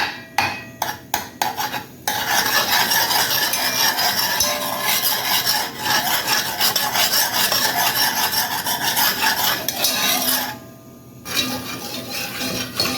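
A spoon stirring and scraping through macaroni and cheese in a dish. It opens with a quick run of clicks against the dish, then settles into continuous scraping, which pauses briefly near the end.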